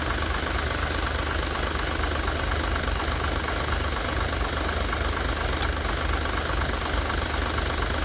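Truck engine idling steadily, with a single sharp click about five and a half seconds in.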